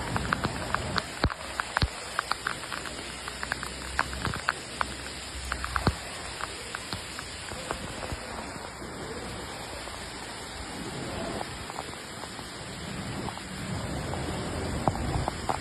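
Heavy rain: a steady hiss of downpour with many sharp drop-hits striking a surface close by, densest in the first half.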